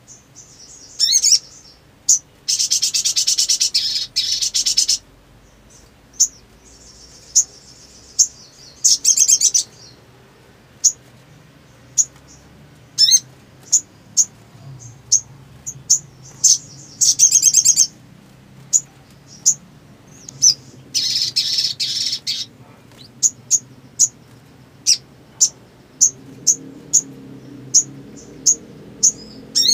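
Sogon sunbird singing: sharp, high chirps repeated about once a second, broken several times by rapid trills lasting a second or two. A faint low hum runs underneath and grows a little louder near the end.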